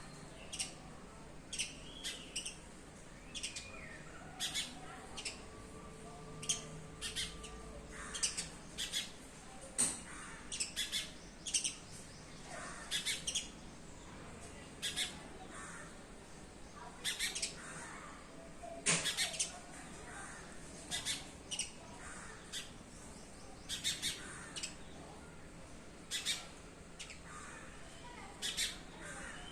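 Birds chirping: short, sharp, high calls repeated irregularly, about one or two a second, over a steady hiss of background noise.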